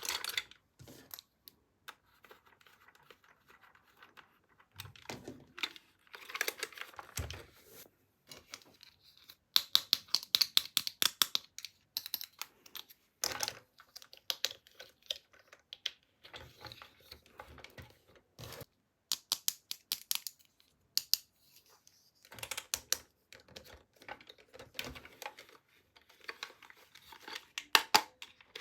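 Toy packaging being handled and opened: plastic and paper crinkling and tearing, with irregular clicks and quick runs of tapping from plastic parts.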